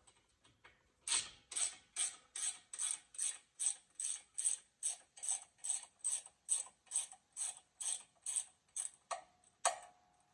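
Pass-through ratchet wrench being worked back and forth to spin a sway bar link nut off its stud. Each back-stroke gives a short burst of pawl clicks, about two and a half a second, starting about a second in and stopping shortly before the end.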